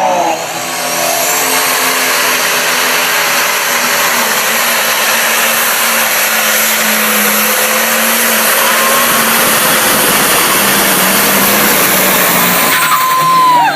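Loud, steady roar of a competition pulling tractor's engine run hard through a pull.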